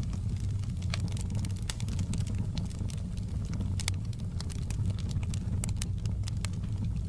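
Wood fire burning in a fireplace: a steady low rumble of the flames with frequent sharp crackles and pops scattered irregularly, a louder pop about four seconds in.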